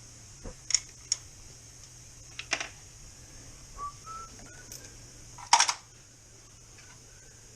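A handful of sharp metallic clinks and clanks of hand tools and engine parts, the loudest a little past the middle, with a few short squeaks in between, during an engine teardown.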